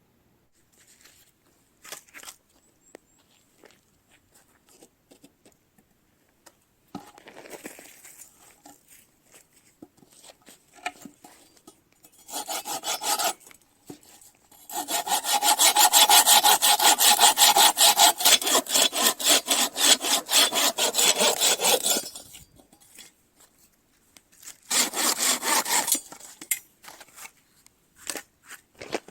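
Hand saw cutting firewood in quick back-and-forth strokes. There is a short bout, then a long steady run of strokes lasting about seven seconds, then another short bout near the end, with light knocks from handling the wood in the pauses.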